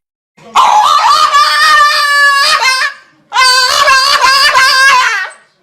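Two long, loud, wavering cries from an animal, one starting about half a second in and the second about three seconds in, each holding a steady pitch.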